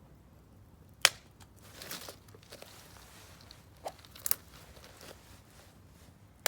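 Firewood burning in a Solo Stove Campfire fire pit: scattered sharp pops and crackles from the logs, the loudest about a second in, a brief crackling rustle around two seconds, and a few more pops later.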